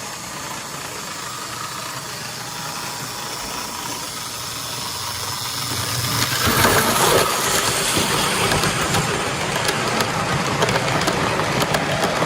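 O gauge model train running along the track: a steady rolling whir that grows louder about halfway through as the train draws near, with quick clicks of wheels over the rail joints near the end.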